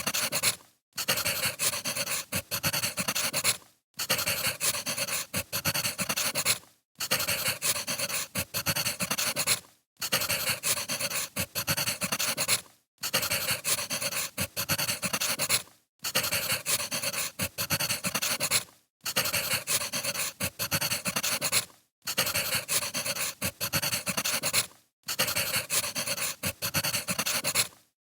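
Burning firewood crackling, a short recording looped so that it fades out to a brief gap and starts again about every three seconds.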